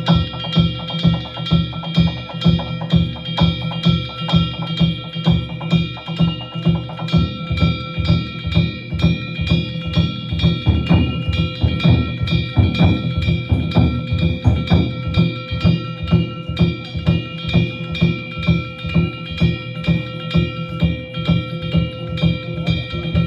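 Danjiri-bayashi festival music: taiko drums beating a steady rhythm of about two strokes a second, over the continuous ringing of metal kane gongs.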